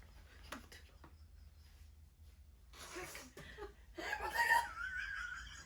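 A person laughing and chuckling in short bursts, loudest and with a drawn-out, wavering high note near the end, over a steady low hum.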